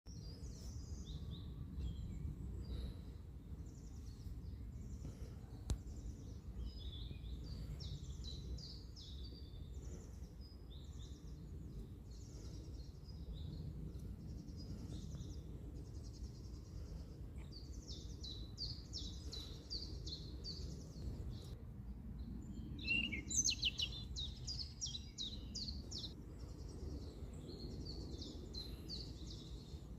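Small bird chirping and twittering in quick runs of short high notes, loudest in a rapid burst about three quarters of the way through, over a steady low background rumble. A single sharp click about six seconds in.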